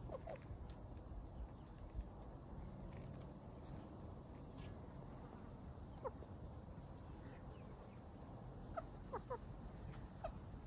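Chickens feeding, with a few short soft clucks: one about six seconds in and a small cluster near the end, over a low steady outdoor background and a faint steady high tone.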